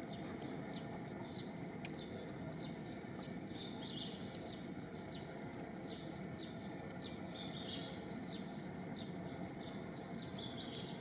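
Short, high chirps repeating about twice a second, with a few longer buzzy calls mixed in, over a steady low background rumble.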